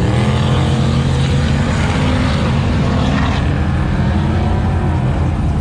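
Race truck engine running hard at high revs, a loud, steady drone.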